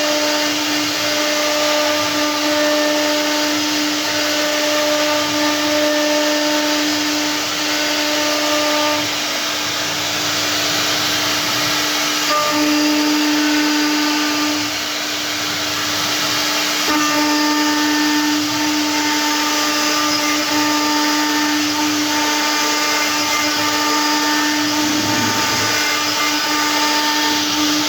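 CNC router spindle running steadily while cutting stone: a constant motor tone over a dense grinding hiss, with the overtones coming and going as the load changes.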